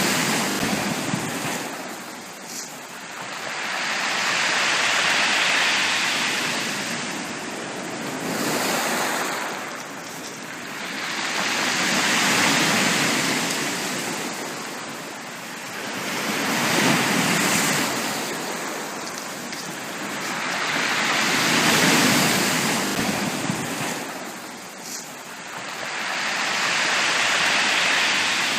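Sea waves washing onto a beach, each wave swelling into a rush of surf and then fading, about every four to five seconds.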